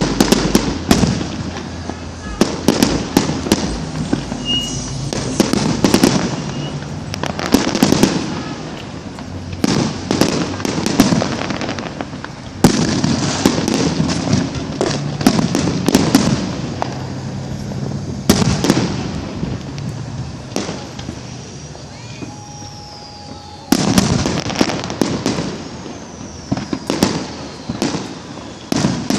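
Fireworks going off one after another: dense crackling and popping with clusters of louder bangs every few seconds, and a brief falling whistle a little past two-thirds through.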